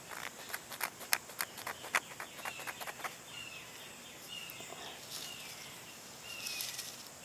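A quick series of sharp clicks and taps over the first three seconds, then a bird calling with short, high, falling chirps about once a second.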